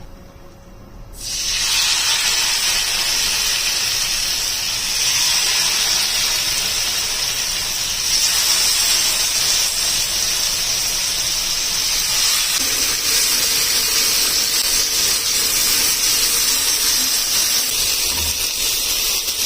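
A steady hiss starts suddenly about a second in and carries on evenly.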